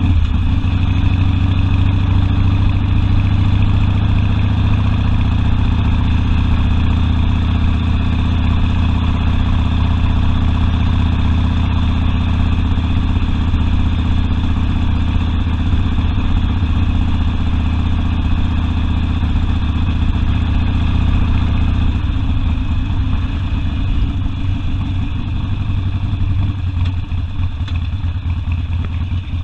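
Harley-Davidson Sportster V-twin engine running steadily. About 22 seconds in, its even note gives way to a rougher, uneven beat.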